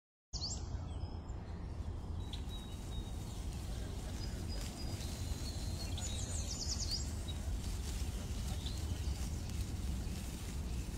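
Birds chirping and calling with short high notes here and there over a steady low outdoor rumble.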